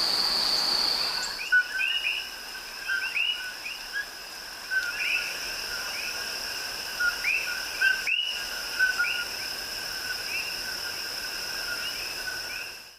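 Tropical jungle chorus at dawn: many short repeated chirping calls, each a lower note with a higher upswept one, over a steady high-pitched insect-like drone that steps up in pitch about a second in.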